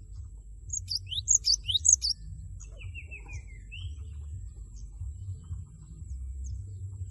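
Cinereous tit (gelatik batu) calling: a rapid burst of sharp, high, falling chirps about a second in, then a short run of lower falling notes. A low steady rumble sits underneath.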